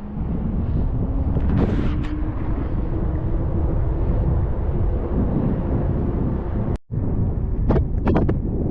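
Wind rumbling on the microphone of a moving bicycle, with a faint steady hum underneath and a few short ticks. The sound cuts out completely for an instant about two-thirds of the way through.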